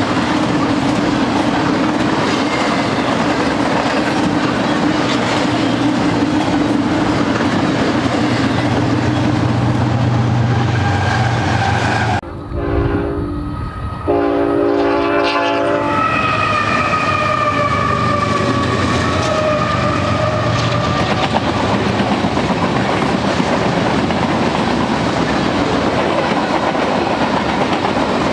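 Freight trains passing close: the steady rumble and clickety-clack of steel wheels over the rails from a double-stack intermodal train. After a cut about twelve seconds in, a locomotive's multi-tone horn sounds twice, then a boxcar and tank-car manifest train rolls by with the same wheel clatter.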